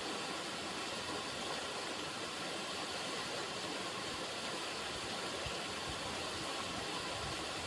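River water running: a steady, even rush with no break or change.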